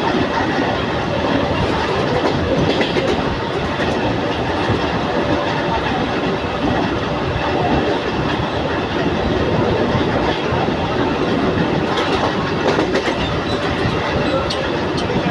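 Mumbai local electric train running along the track: a steady rumble of the carriages with the clickety-clack of wheels over rail joints.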